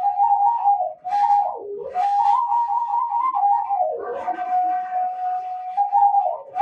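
Washint, the Ethiopian end-blown bamboo flute, playing a solo melody with ornamented turns and breathy attacks. It dips to lower notes twice and holds one long steady note about four seconds in.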